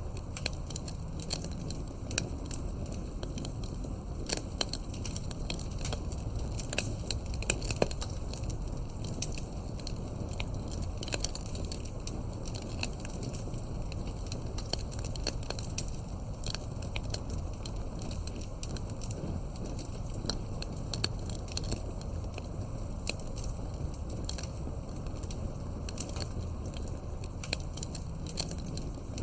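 Campfire wood crackling and popping: irregular sharp snaps and pops over a steady low rumble of the burning fire, with a cluster of louder pops about a quarter of the way in.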